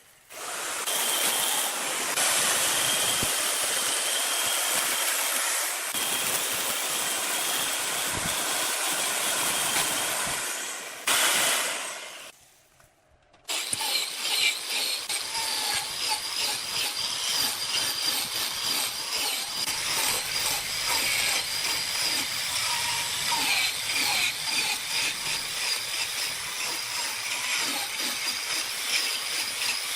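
Woodturning on a lathe: a cutting tool scraping and shaving spinning wood, a steady hissing scrape. It breaks off for about a second around twelve seconds in, then resumes with a rougher, more uneven texture.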